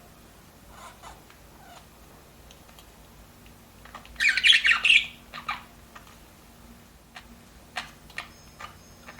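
Pet budgerigars calling, with a few faint short calls about a second in and a loud, dense burst of squawking chatter about four seconds in. A few short sharp clicks follow near the end.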